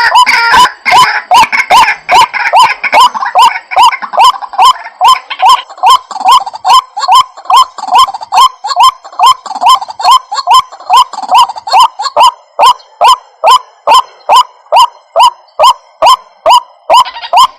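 White-breasted waterhen calling: a long series of short, sharp croaking notes, about two and a half a second. The notes overlap at first, then settle into one even, monotonous rhythm. This is the bird's repeated call used as a lure to draw waterhens in.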